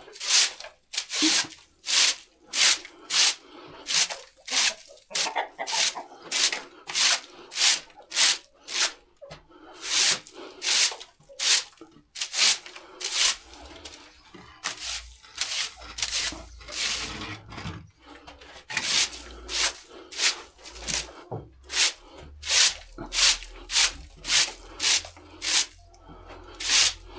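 A tool scraping across the barn floor in quick, even strokes, about one and a half a second, while manure and litter are cleared.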